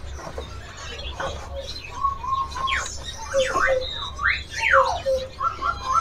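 Several caged songbirds chirping and calling at once: quick sweeping chirps and short whistled notes, busier from about two seconds in, over a steady low hum.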